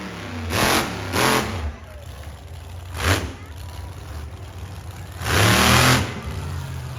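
Monster truck engine revving in bursts: two quick blips in the first second and a half, a short one about three seconds in, and a longer, louder rev near the end, with a low idle rumble between.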